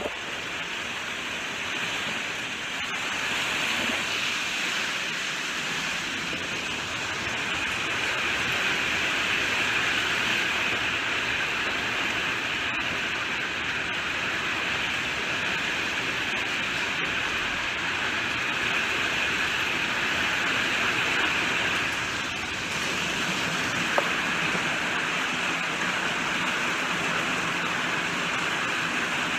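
Steady heavy rainfall, an even hiss that swells and eases slightly, with a single sharp click late on.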